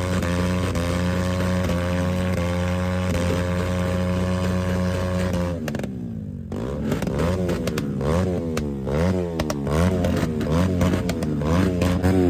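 Motorcycle engine held at high revs, its pitch creeping slowly upward, then cut off briefly about halfway through. It is then revved up and down in quick repeated blips, about two a second.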